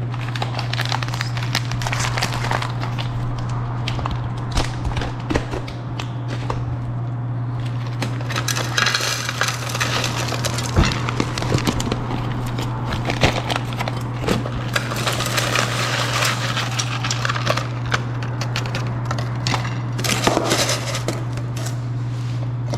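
Plastic vacuum-sealed bag crinkling as it is opened and handled, with dry dehydrated curry and rice rattling and crackling as it is tipped out into a cook pot.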